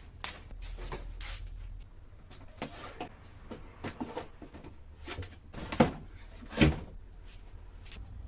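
Scattered knocks and clatter of objects being handled, with two louder knocks close together a little past the middle.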